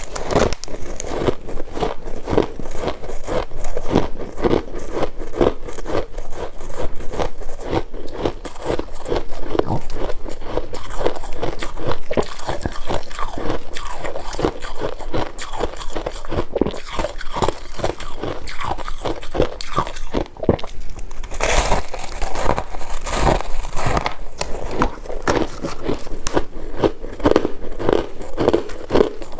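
Chunks of freezer frost being bitten and chewed: dense, continuous crunching and crackling, with louder crunches a little past the middle.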